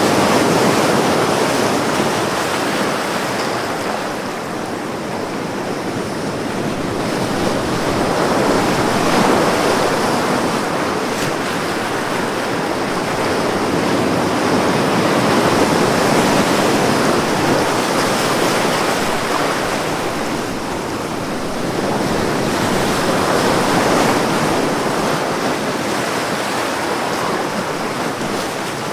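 Ocean waves breaking and washing on a beach, swelling and easing about every seven or eight seconds.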